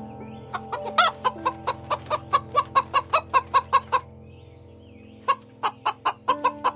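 Chicken clucking in rapid runs of short calls, about five a second, in two bouts with a pause of about a second between them.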